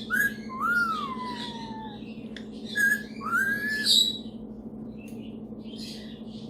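Superb parrot (Barraband parakeet) whistling and squawking: a long whistle that rises and then slowly falls, then a second rising whistle about two seconds later, mixed with short squawks. It eases into soft, scattered chirps for the last couple of seconds.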